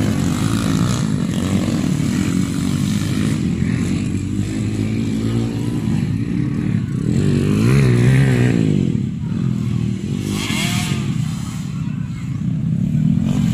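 Motocross dirt bike engines racing, revving up and down as they go through the gears. One bike passes close about eight seconds in, the loudest moment, its pitch rising and then falling.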